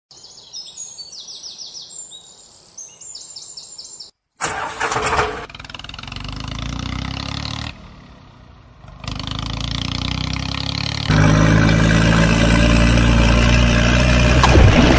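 Birds chirping, then after a brief break an engine starts and runs, getting louder about eleven seconds in with a steady low hum.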